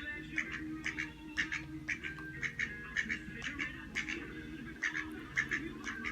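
Ducks quacking in a quick, continuous series, about two to three calls a second.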